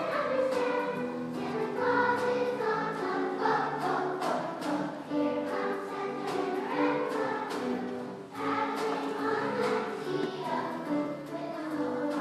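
A children's girls' choir singing a Christmas song together, phrase after phrase, with a short break for breath about eight seconds in.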